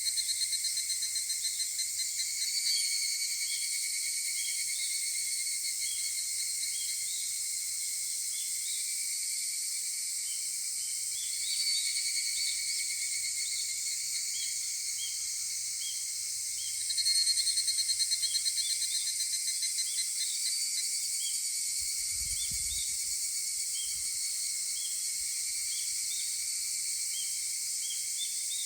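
Higurashi (evening cicadas) calling in a chorus: rapid trilled kana-kana phrases that swell up loudly three times, at the start, about twelve seconds in and about seventeen seconds in, each fading away over several seconds against a steady background of other cicadas.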